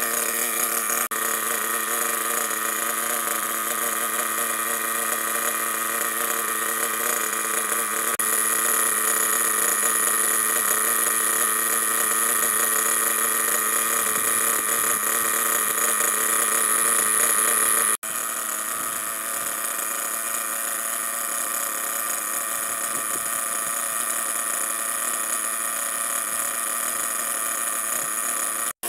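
Ansmann ARNE .21 nitro glow engine in a 1/8 RC buggy running steadily at an even, unchanging speed, being run through its first tank after its first start. The sound drops out for an instant about a second in, at about eighteen seconds and again at the very end.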